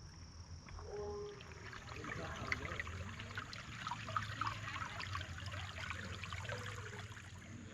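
Faint trickle of running creek water.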